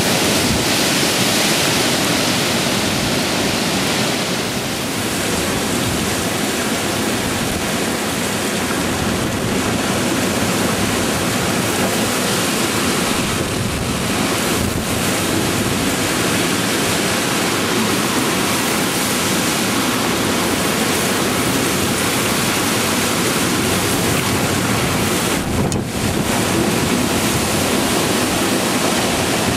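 Strong, gusting hurricane wind, with wind buffeting the microphone.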